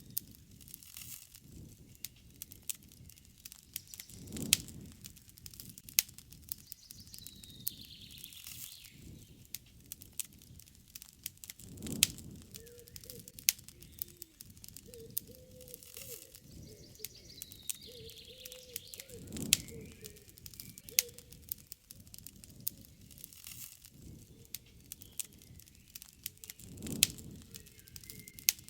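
Wood campfire crackling, with frequent sharp pops and a soft low rush of the fire about every seven or eight seconds. A bird calls twice in the background with short high falling notes.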